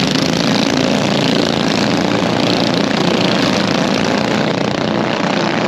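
RC monster truck running on the track, a steady loud motor and drive noise that holds level throughout.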